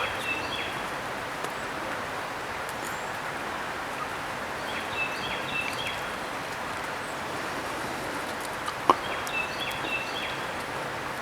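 A songbird singing a short phrase of high notes three times, about every four and a half seconds, over a steady outdoor background hiss. A single sharp click sounds near the end.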